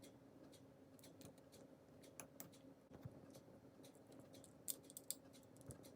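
Faint, scattered clicks of plastic LEGO pieces being handled and pressed together, over a low steady hum.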